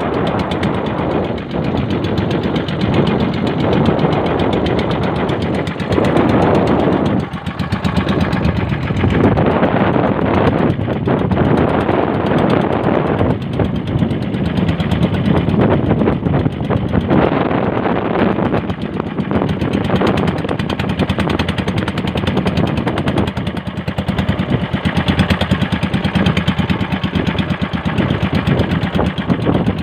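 Motorized bangka's outboard-style engine running steadily with a rapid, even popping pulse.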